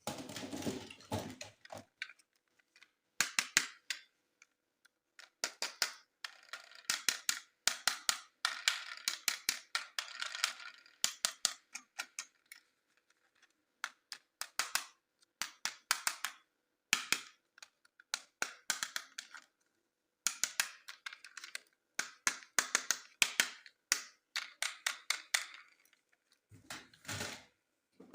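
Plastic toy packaging and parts being handled and opened: bursts of crinkling and quick sharp clicks with short pauses between them.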